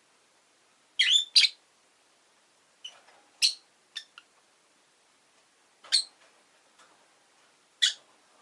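Rosy-faced lovebird giving short, sharp, high-pitched chirps, about eight in all, some singly and some in quick pairs, with pauses of a second or two between them.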